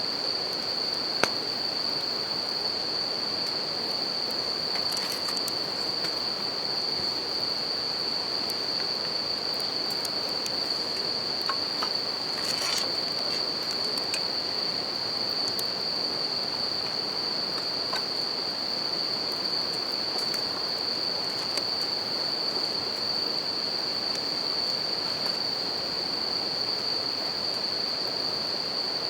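Japanese bell crickets (suzumushi) singing in a steady, high-pitched, unbroken trill over the even rush of a river. A campfire crackles now and then, with a sharp pop about a second in.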